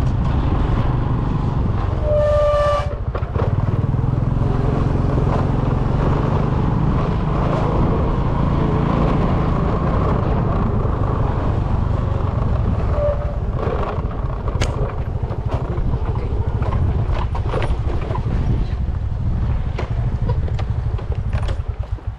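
A motor vehicle's engine running steadily while travelling, with a short horn beep about two seconds in. The engine noise cuts off near the end.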